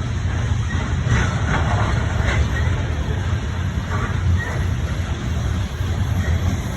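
Train passing, a steady low rumble with a few brief clatters.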